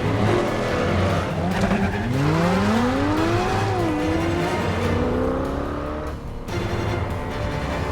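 Sports car engines revving hard; their pitch climbs steeply about two seconds in and again near the middle, with tires squealing over a film score.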